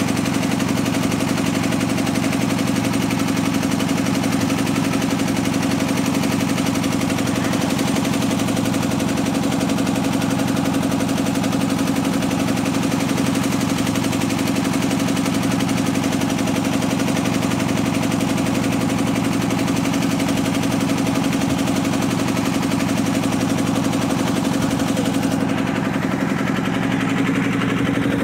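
Fishing boat's engine running steadily, with a fast, even chugging beat. The higher hiss drops away about 25 seconds in.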